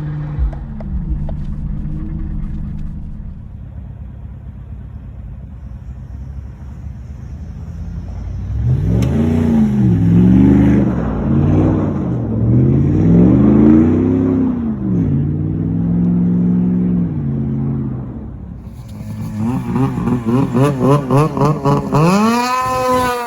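Pickup truck engine running steadily, then revved up and down several times. Near the end comes a quick run of short throttle blips that climb in pitch.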